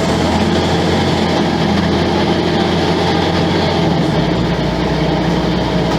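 Volvo B10M bus's underfloor six-cylinder diesel engine running steadily, its deep note dropping lower about four seconds in.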